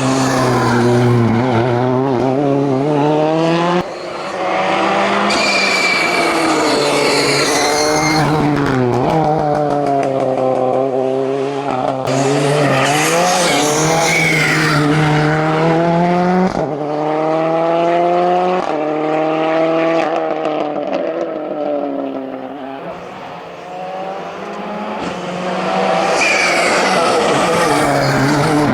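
A hillclimb racing car's engine revving hard, its pitch climbing and dropping again and again through gear changes and lifts, with short high tyre squeals a few times.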